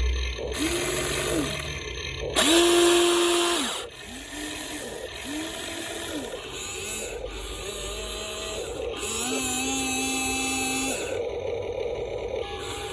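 Small electric motors and gearboxes of a Huina 1593 RC excavator whining in short runs, each rising in pitch, holding, then falling away, five times over. The loudest run comes about two and a half seconds in.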